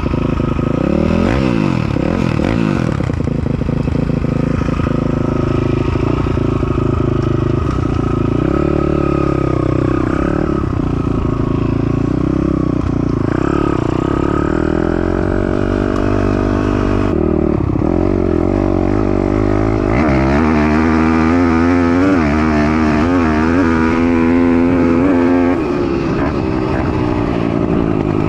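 Piranha 190 pit bike's Daytona single-cylinder four-stroke engine being ridden hard, revving up and falling back over and over as it climbs and drops in pitch, with its highest, hardest revving about two-thirds of the way through before it backs off. The rider reckons it could use a little carb adjustment.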